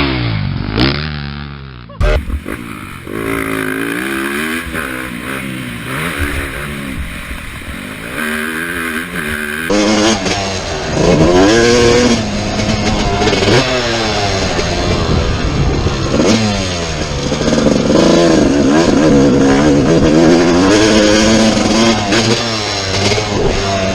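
Motocross dirt bike engines revving hard, their pitch rising and falling as riders open and close the throttle and shift. The sound changes abruptly about 2 and 10 seconds in.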